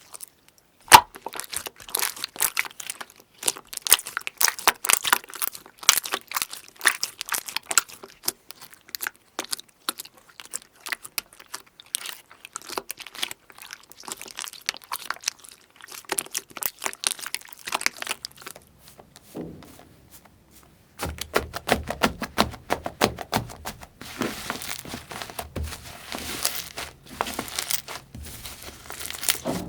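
Slime being pressed and stretched by hand, giving dense, irregular crackling clicks and pops. About 21 seconds in the sound changes to a thicker, busier crackle with more low body.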